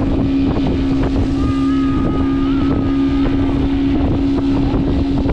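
Motorboat engine towing a banana boat, running steadily at speed with an even drone, with wind buffeting the microphone.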